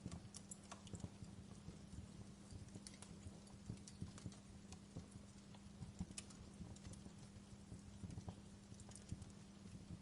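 Wood fire burning in a fireplace, crackling with irregular small pops and snaps over a low steady hum.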